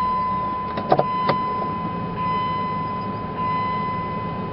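Vehicle engine running at low speed with a steady rumble, under a continuous high-pitched electronic tone. Two sharp clicks come about a second in.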